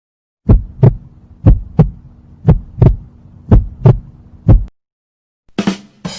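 Heartbeat sound effect: low double thumps, about one lub-dub a second, over a steady hum. Four double beats and a last single thump, then it stops; a short different sound begins just before the end.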